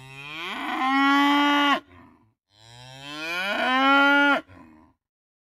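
A bull mooing twice, each a long call that rises in pitch, holds steady and then stops sharply.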